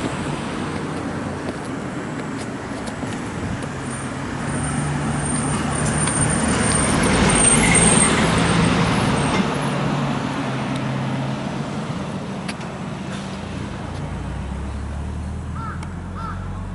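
A motor vehicle passing on the road: its engine and tyre noise swell to a peak about halfway through, then fade. Underneath is the steady rush of a mountain stream.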